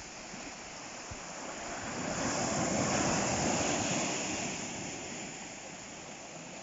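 Ocean waves breaking on the shore. One wave swells up about two seconds in, peaks, then washes back and fades over the next couple of seconds.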